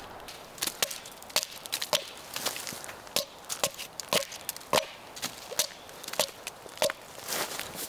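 A series of sharp knocks, about one and a half a second, each with a short ring.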